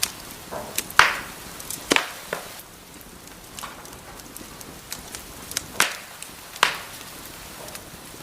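Wood fire crackling: a steady soft hiss broken by sharp pops and snaps, the loudest about a second in, just before two seconds, and around six seconds.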